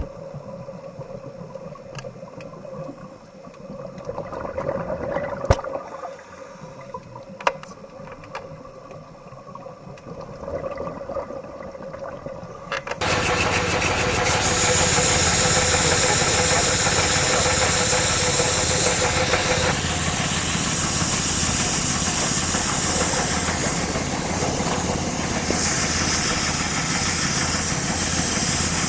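A motor-driven machine starts up abruptly about halfway through and runs steadily, loud, with a fast pulsing chug and a strong rushing hiss. Before it starts there are a couple of sharp clicks over a faint steady hum.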